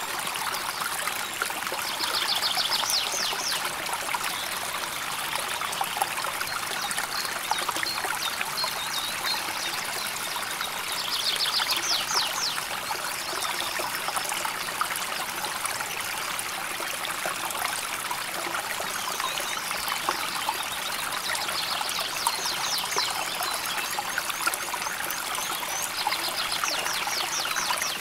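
River water flowing and trickling steadily over stones. Short bursts of rapid, high chirping come through several times over it.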